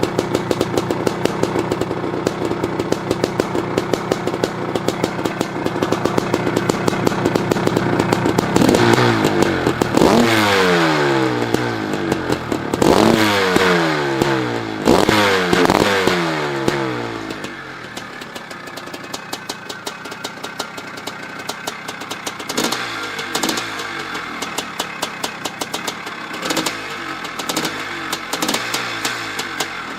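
1985 Maico 500's single-cylinder two-stroke engine running: a steady fast idle, then several sharp throttle blips about a third of the way in, each falling back in pitch, before it settles to a quieter, uneven idle.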